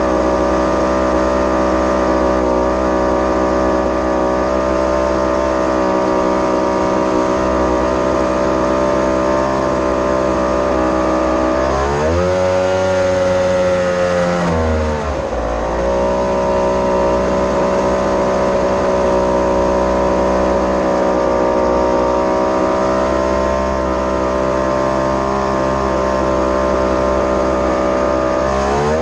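Mini jet boat's engine running at steady revs. About twelve seconds in it revs up briefly, then drops off and settles back to the same steady note.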